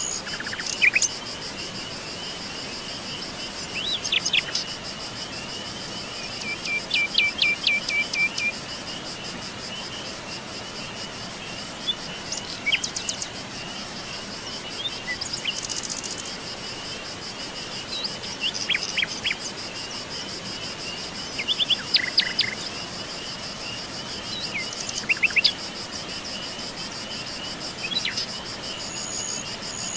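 Insects trill steadily in a fast, high, pulsing chirr. Songbirds call in short phrases of quick notes every few seconds.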